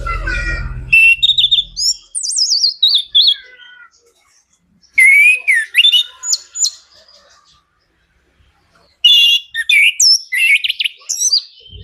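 A male chestnut-capped thrush (anis kembang) singing its full, varied song: three bursts of clear whistles and quick falling trills separated by pauses of about a second. A low rumble sits under the first second.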